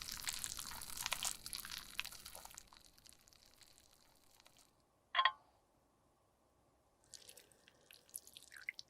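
Close-up crackling and crunching of makeup product being crushed for about two and a half seconds, then one short ringing tick about five seconds in, and scattered small crackles and clicks near the end.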